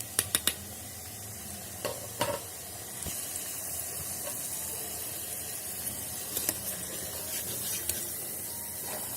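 Potato pakoras in besan batter sizzling steadily as they deep-fry in hot oil in an electric kettle, with a few light clicks scattered through, loudest at the start and about two seconds in.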